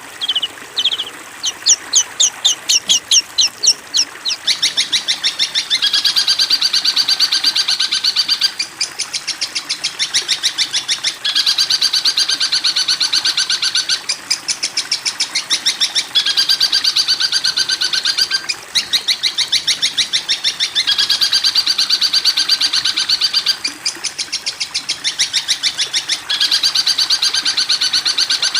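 Recorded songbird song: rapid, high-pitched chattering trills, at first as quick separate notes, then in repeated bursts of about two to three seconds with short breaks between them.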